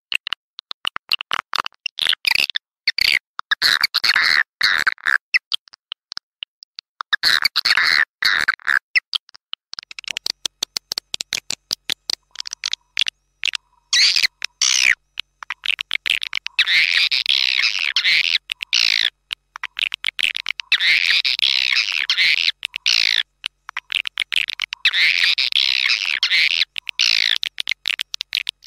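Swiftlet lure call: recorded edible-nest swiftlet chirps and twitters, played to draw swiftlets into a bird house. Rapid, stuttering high chirping in choppy bursts with short gaps, becoming dense, almost unbroken twittering in the second half.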